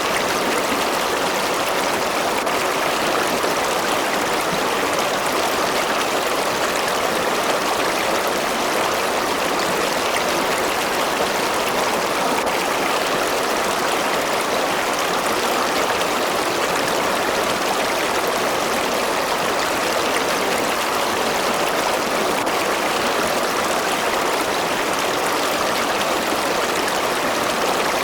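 River water flowing steadily over rocks, a continuous even rush of running water with no change in level.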